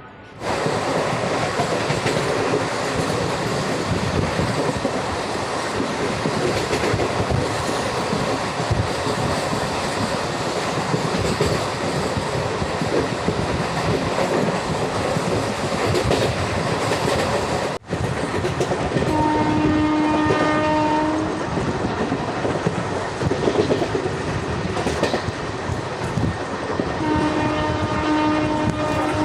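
Express passenger train running at speed: a loud, steady rush of wheel and track noise. A train horn sounds twice, each a steady tone of about two seconds, about two-thirds of the way through and again near the end.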